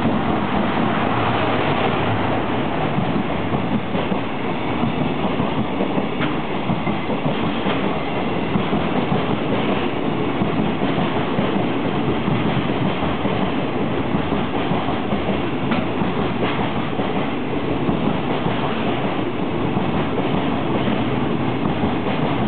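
Freight train rolling through a station: a steady rumble of wheels on rail, with a few faint clicks as wheels cross rail joints.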